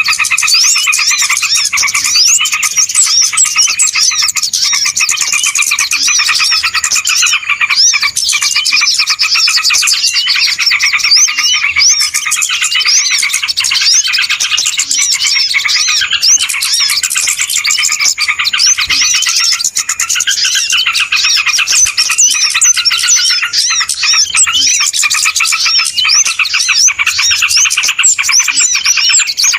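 A dense, unbroken chorus of many small birds chirping and twittering fast and loud over one another: a 'noisy' bird-lure recording played to call small birds in.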